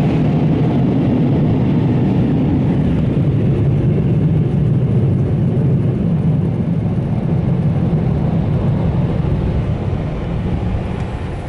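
Car wash PDQ MaxAir dryer blowers running, a loud steady rush of air that eases off slightly near the end.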